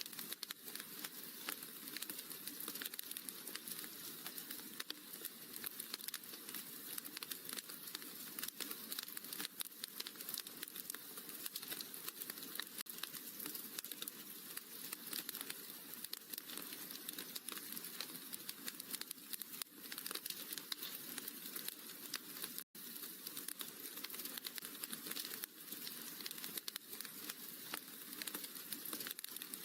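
Wood fire in a fireplace crackling steadily, a dense run of small pops and snaps. The sound cuts out for a split second about three quarters of the way through.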